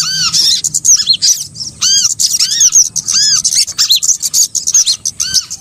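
Bird-lure recording of small songbirds calling. A dense run of overlapping, arched chirps, each rising then falling in pitch, several a second.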